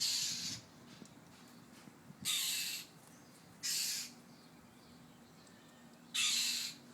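A bird giving harsh, rasping alarm calls, four in all, each about half a second long: an angry bird scolding a cat near its young.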